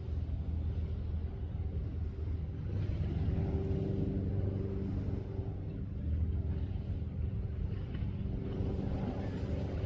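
A steady, low engine rumble, swelling slightly now and then.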